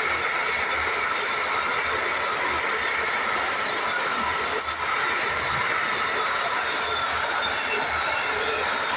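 Freight train of log wagons behind a Class 70 diesel locomotive running past. The wheels squeal in steady high tones over continuous rail noise, with regular low knocks from the wheels.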